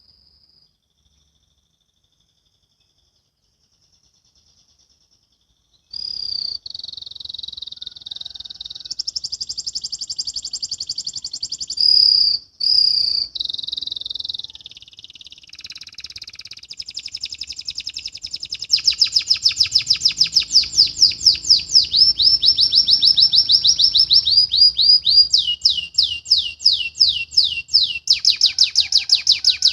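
Domestic canary singing: after about six seconds of near silence, a long, loud, high-pitched song of buzzy trills and rapid runs of repeated sweeping notes, the faster runs filling the second half.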